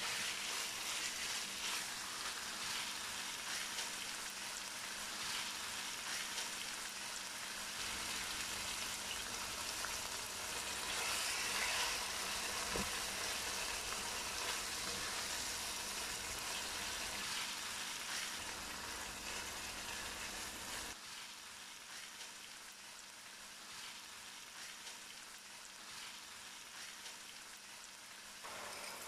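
Diced chicken frying in oil in a nonstick wok, a steady sizzle as it is stirred with a silicone spatula. The sizzle drops noticeably about two-thirds of the way through.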